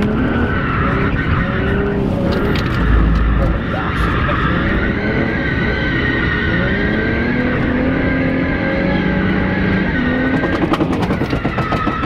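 Car drifting: the engine revving up and down while the rear tyres squeal in a long, wavering screech, with a low thump about three seconds in.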